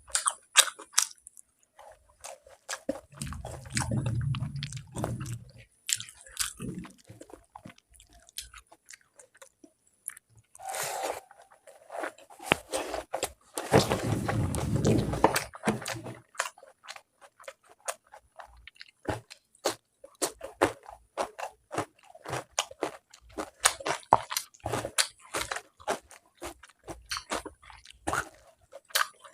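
Close-miked chewing and biting of pulao, dum aloo and egg: many short, wet mouth clicks and smacks throughout, with two longer, louder rustling stretches about three seconds in and again around fourteen seconds.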